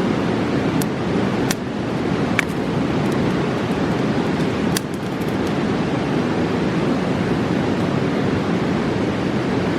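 Steady rushing of a fast mountain river, with a few sharp crackles and pops from a wood campfire in the first half.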